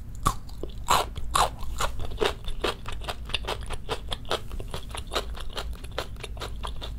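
Close-miked chewing of crisp food: a steady run of crunches, about three to four bites a second, the first few the loudest.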